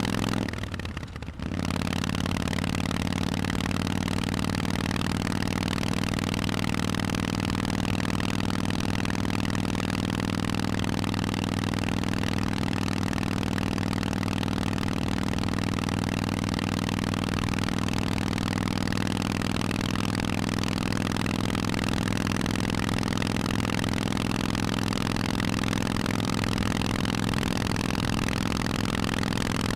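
Harley-Davidson Forty-Eight's air-cooled 1200 cc V-twin running through Vance & Hines exhausts at steady revs. There is a brief dip in level about a second in.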